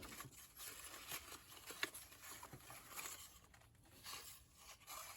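Faint rustling of paper cut-outs being shuffled and sorted by hand, with a few light taps and clicks.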